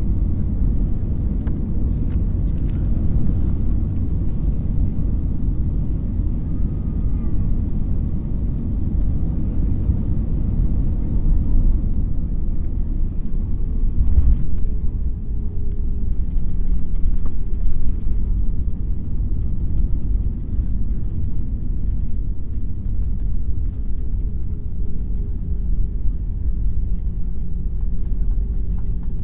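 Steady low rumble of an airliner heard from inside the passenger cabin, with a faint thin high whine joining about halfway through.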